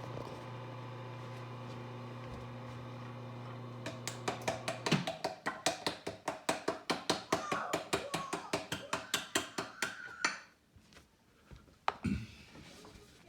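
Mazzer Robur coffee grinder's motor running steadily, then winding down about five seconds in. Several seconds of rapid metallic clacking follow, about five a second, then stop.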